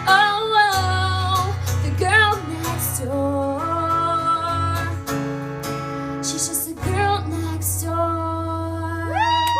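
Live acoustic guitar strummed under a woman's voice singing long held, wordless notes: the closing bars of a singer-songwriter's song.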